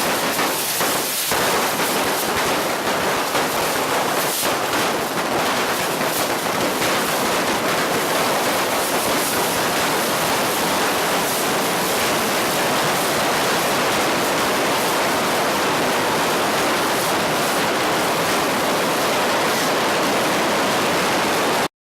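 Fireworks going off in a dense, continuous crackling rush, with a few sharper bangs in the first second or so and again around four seconds in. The sound cuts off suddenly near the end.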